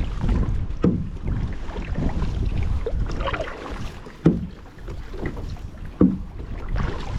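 Kayak paddle strokes dipping and splashing in the water, a sharp splash every couple of seconds, over a steady low rumble of wind on the camera's microphone.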